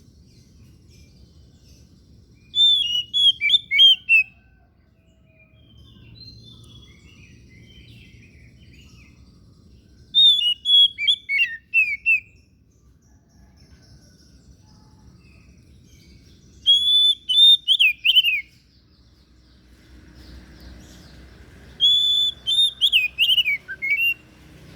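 Oriental magpie-robin (kacer) singing: four loud phrases of quick whistled notes sweeping up and down, each about two seconds long, spaced several seconds apart.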